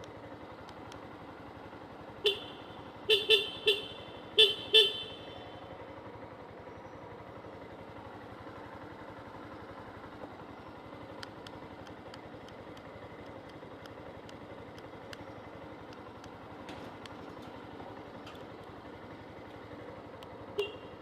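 A vehicle horn sounds about six short beeps in quick succession a couple of seconds in, then once more near the end, over steady street traffic noise.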